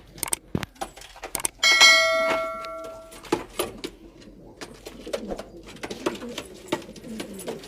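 Pigeons cooing with low, warbling calls among many sharp clicks and taps. About two seconds in, a loud metallic ring starts suddenly and fades out over about a second and a half.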